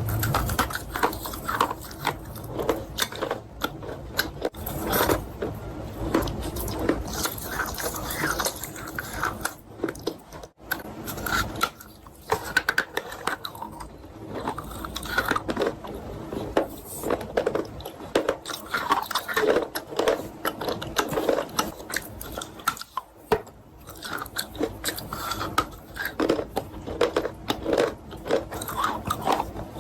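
Close-miked chewing of chalk mixed with paste: a steady run of wet crunching and biting.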